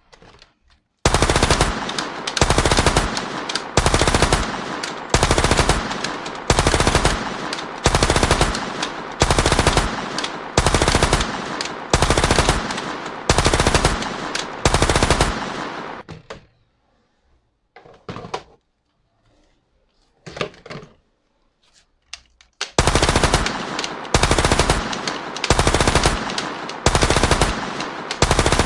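Toy gun's electronic machine-gun sound effect, played in short bursts of rapid fire about once a second. About two-thirds of the way in it pauses for roughly six seconds, with only a few faint clicks, then the bursts start again.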